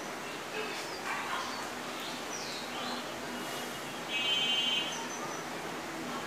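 Birds chirping, short rising and falling calls over a steady background hiss, with a louder half-second tone about four seconds in.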